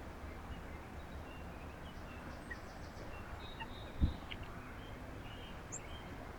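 Faint, short chirps from small birds over a steady low outdoor rumble, with a single dull thump about four seconds in.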